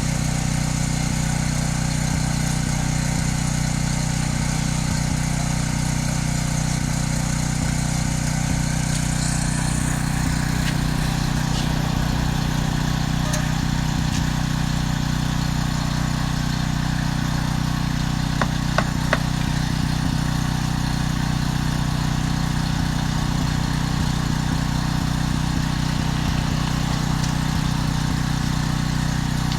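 An engine running steadily at a constant speed, with a few short clicks about two-thirds of the way through.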